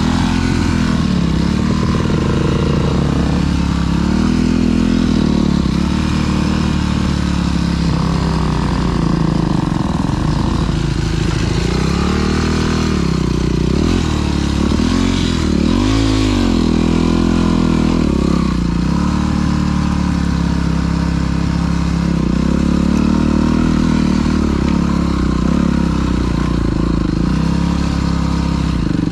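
Dirt bike engine being ridden, its pitch rising and falling as the throttle opens and closes, with one sharp rev about halfway through.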